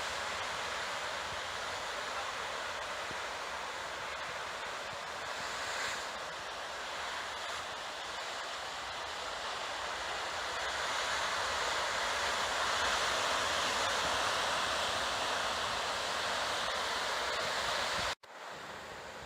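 Heavy surf from high post-typhoon waves breaking on the coast, a steady rushing of water with wind on the microphone. It cuts off abruptly near the end and resumes quieter.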